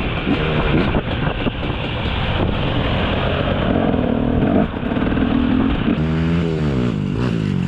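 Dirt bike engine running hard, its pitch climbing and falling several times as the throttle is worked; about six seconds in the pitch drops, then climbs again.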